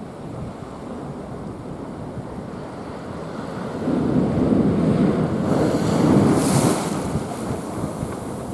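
Heavy typhoon swell surging against a seawall, with wind buffeting the microphone. About four seconds in a big wave breaks and surges louder for about three seconds, with a spray hiss near its peak, then falls back.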